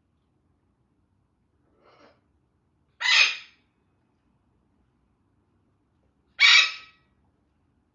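Parrot screeching: two loud, harsh calls about three and a half seconds apart, with a faint shorter call shortly before the first.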